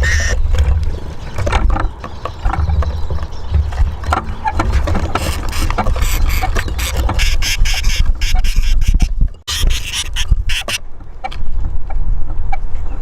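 Eurasian siskins feeding at a wooden bird house: many quick clicks and taps of beaks and feet on the wood, over a steady low rumble.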